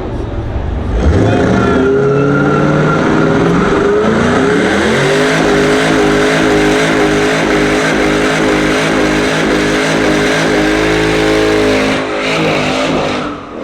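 A car's engine revved hard in a burnout: the note climbs over the first few seconds, holds at high revs with a wavering pitch, then drops away about twelve seconds in.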